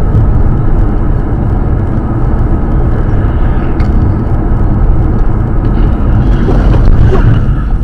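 A moving car's steady engine and road rumble, heard from inside the cabin.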